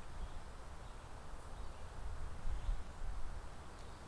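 Quiet outdoor ambience with an uneven low rumble, swelling about two and a half seconds in, typical of wind buffeting the microphone; no shots or clicks.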